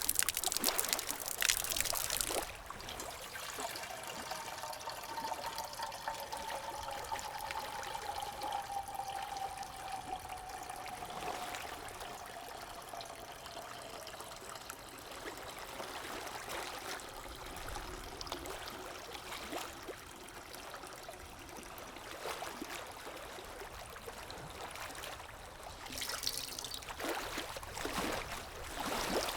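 Water trickling steadily, louder for the first couple of seconds and again near the end, with a faint tone sliding down in pitch a few seconds in.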